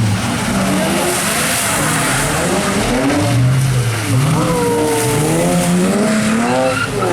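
A car engine revving hard, its pitch climbing and dropping again about every second and a half, with tire noise as the car spins donuts on wet pavement.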